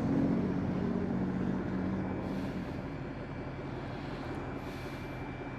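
Steady low engine hum of vehicles waiting at a traffic light, with a pitched drone that fades away over the first two or three seconds.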